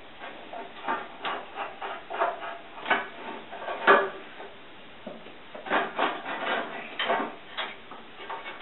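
Irregular knocks and clatter of the band saw's table being handled and fitted onto the saw, with one sharper knock about four seconds in.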